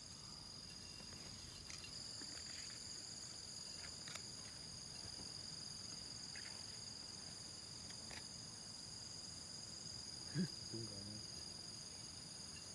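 Steady high-pitched drone of insects chirring in the vegetation, several even tones held without a break. A brief low sound about ten seconds in.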